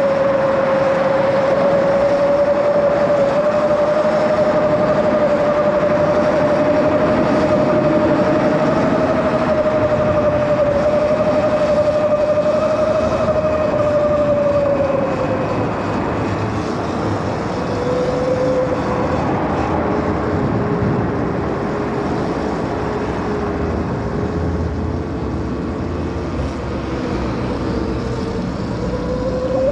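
Electric bike motor whining at a steady pitch over a constant rush of wind and road noise. The whine drops in pitch about halfway through and climbs again near the end.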